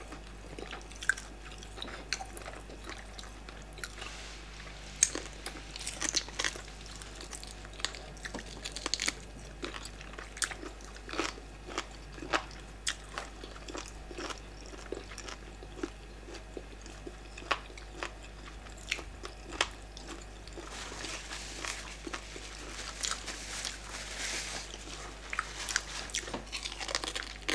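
Close-up eating sounds of yam fufu and soup eaten by hand: chewing, with many short mouth clicks and smacks, busier in two stretches near the start and near the end.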